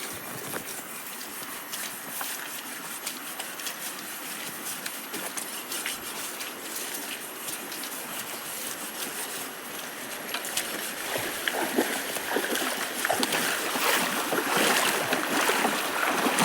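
Water running in a stream, with splashing and sloshing that grows louder over the last few seconds.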